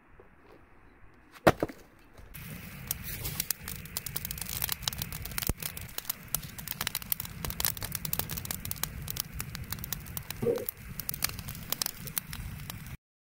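Bonfire crackling and popping densely. One sharp knock comes a second and a half before the crackling starts, and the crackling cuts off abruptly near the end.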